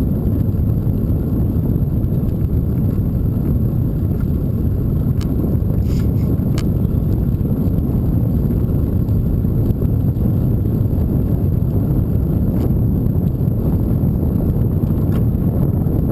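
Steady low rumble of wind buffeting the microphone on a moving bicycle, with a few faint clicks scattered through it.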